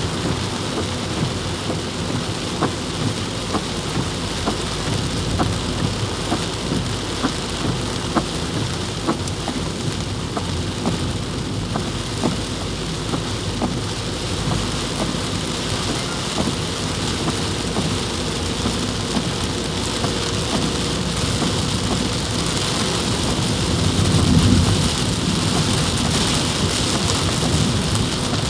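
Heavy rain pouring steadily, with individual drops striking close by as scattered sharp taps. A low rumble swells near the end.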